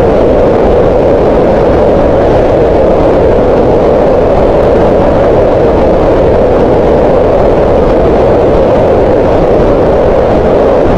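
Green noise: a steady, loud, unchanging hiss of generated noise, weighted toward the middle of the range with little top end.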